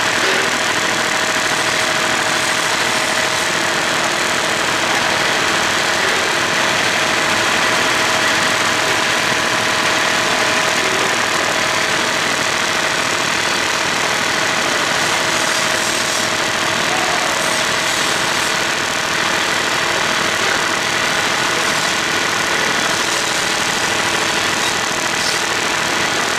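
Engine idling steadily, with a constant hum and whine that does not change.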